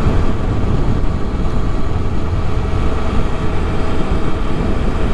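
Riding-along sound of a TVS Apache RTR 160 4V motorcycle at steady speed: wind rushing over the microphone over the engine's steady running.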